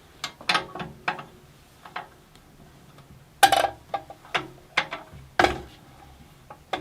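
A spanner clicking and clinking against the metal blade-tension adjuster of a small benchtop bandsaw as it is fitted and turned to slacken the blade: scattered sharp metallic clicks, some ringing briefly, the loudest about three and a half and five and a half seconds in.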